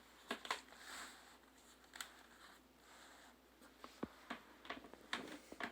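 Faint handling noises of a motorcycle helmet being turned over in the hands: scattered light clicks, taps and rustles, with a sharper knock about four seconds in.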